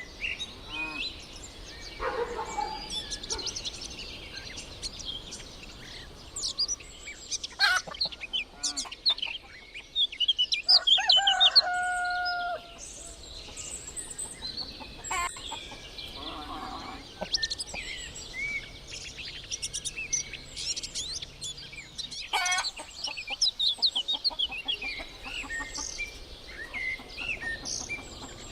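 Village farmyard birds: a rooster crows once with a long, loud held call a little after ten seconds in, while hens cluck and small songbirds chirp throughout.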